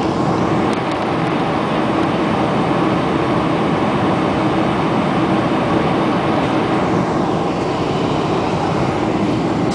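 Steady cabin noise inside a Boeing 747-400: jet engines running and air rushing past the fuselage.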